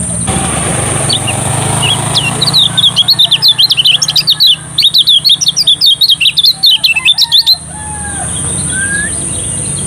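Kecial kuning songbird singing a fast, continuous string of high chirping and twittering notes for about five seconds, starting a couple of seconds in and stopping abruptly, with a few single notes before and after. A steady high-pitched whine runs underneath.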